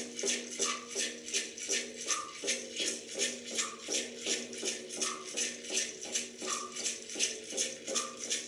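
Shamanic-style rattle shaken in an even, steady beat, about two strokes a second, over a steady low drone.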